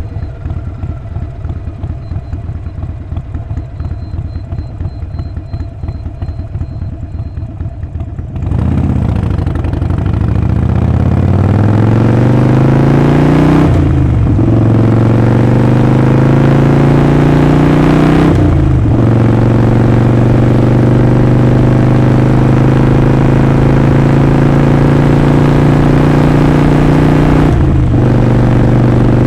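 Harley-Davidson Sportster 48's 1200 cc air-cooled V-twin idling with a lumpy, uneven beat. About eight seconds in it pulls away and accelerates, the engine note rising through the gears with three upshifts, each marked by a brief dip in pitch.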